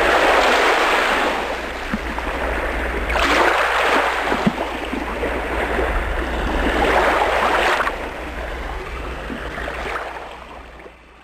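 Sea waves washing onto a beach, surging three times and then fading out, with a steady low rumble underneath.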